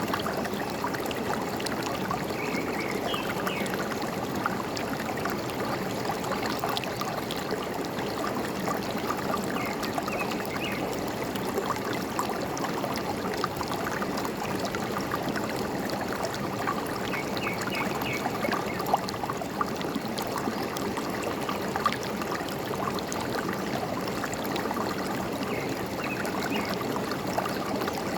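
Forest stream trickling and gurgling steadily, with small splashes. Short bursts of bird chirping come four times.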